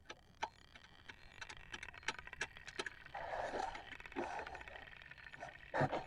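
Light metallic clinks, taps and scrapes of hand tools being handled, in scattered single strikes, with a louder knock near the end.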